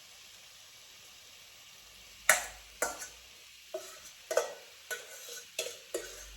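Oyster mushrooms sizzling in oil in a hot pot as they brown. From about two seconds in, a utensil knocks against the pot again and again, about twice a second, as they are stirred and turned; the first knock is the loudest.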